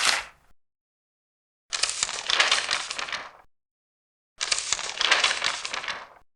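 Large paper pages being turned, two separate turns about two and a half seconds apart, each a crackling rustle of under two seconds, with the end of a previous turn at the very start.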